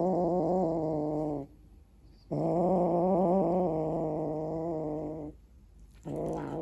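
Cat growling over its food in long, drawn-out growls: three of them, each lasting a couple of seconds, with short pauses between. Food-guarding while it eats a raw chicken head.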